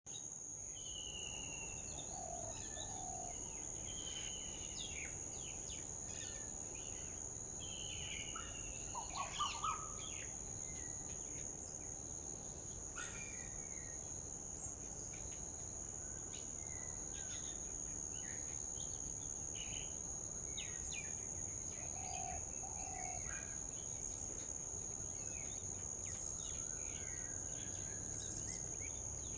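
Birds chirping and calling in short scattered phrases over a steady, high-pitched insect drone.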